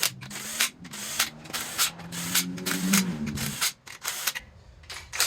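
Irregular clicks and light metallic knocks from hand tools and parts being worked on a bare engine block, with a low steady tone under them for the first three and a half seconds.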